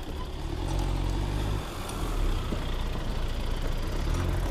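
Road traffic: a motor vehicle's engine running steadily with a low hum, dipping briefly about a second and a half in.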